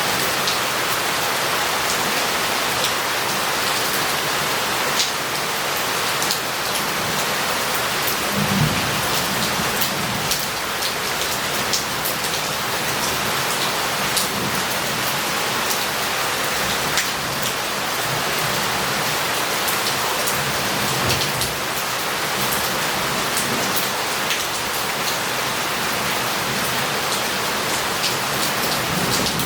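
Heavy rain falling steadily on roof tiles and a paved street, with scattered close drops and water running off. A low rumble of thunder builds about eight seconds in and fades over a few seconds.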